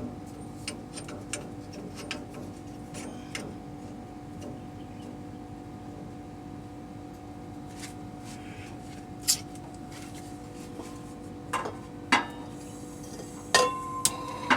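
A compressor running with a steady electric hum, broken by scattered metallic clinks and knocks. Near the end, just after a knock, a higher steady whine joins in.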